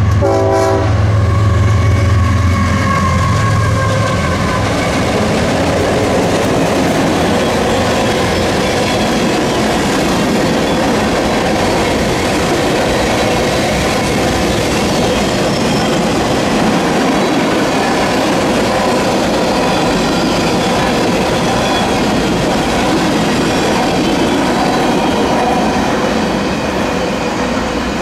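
A diesel freight train passing close by. The locomotive horn ends about half a second in, and the lead engines drone past for the first few seconds. After that come the steady rumble and clickety-clack of the freight cars' wheels on the rails, easing off a little near the end.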